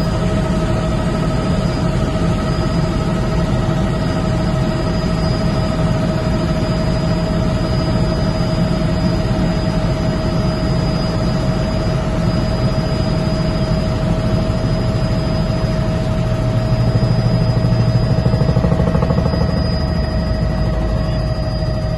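Helicopter engine and rotors running steadily in flight: a loud, constant low drone with a steady whine above it, swelling slightly for a couple of seconds late on.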